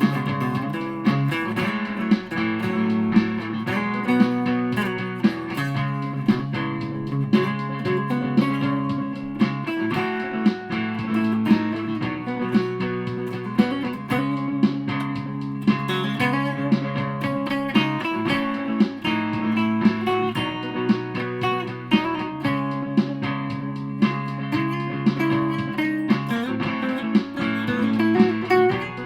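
Aria Pro II Thor Sound electric guitar played through an effects pedal, riffing on sustained low notes with sharp accents about once a second.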